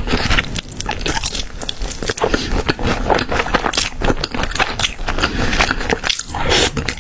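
Close-miked crunchy bites and chewing of food, a dense run of crisp crackles in quick succession.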